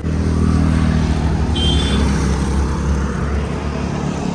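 Motor vehicle engine running close by with a steady low hum, and a short high beep about one and a half seconds in.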